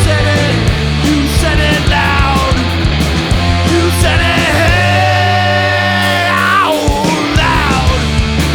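Punk rock band playing loudly: electric guitars, bass and drums, with a long held note in the middle that bends down in pitch near the end.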